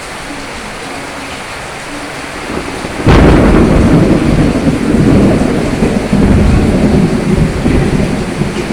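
Steady rain, then about three seconds in a sudden thunderclap that breaks into a long, loud, low rumble of thunder.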